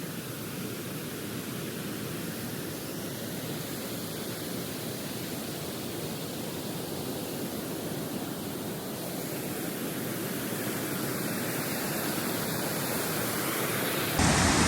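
Steady rushing of a waterfall, slowly growing louder, with a sudden step up in level near the end.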